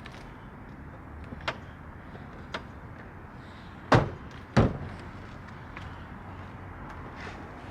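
Two loud knocks about half a second apart, each with a short ring, coming after a couple of lighter clicks.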